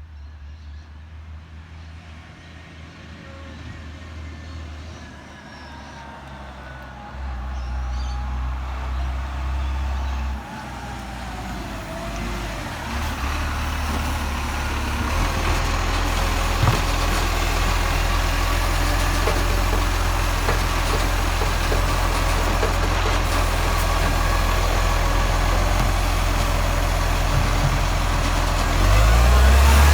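A garbage truck's engine running and growing steadily louder as it draws near, rising further near the end.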